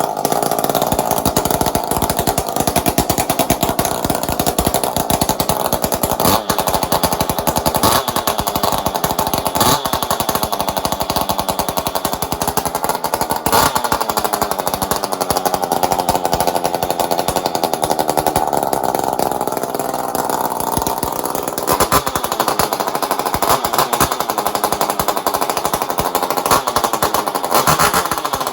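Echo CS-400 40 cc two-stroke chainsaw running loudly with its restrictive muffler opened up, the engine pitch rising and falling several times as the throttle is worked. It is quite a bit more responsive on the throttle.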